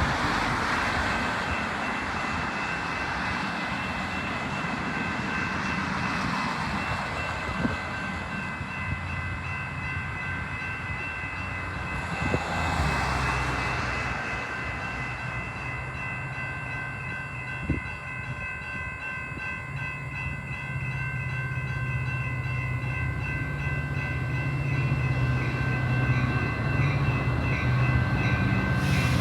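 A train approaching: a low rumble comes in about halfway through and grows steadily louder, under a few steady high-pitched tones.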